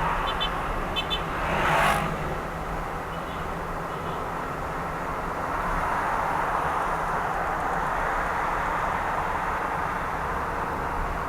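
Car driving on a city road: steady road and tyre noise over a low engine hum. A few short high ticks sound in the first second, and a brief loud swoosh comes about two seconds in.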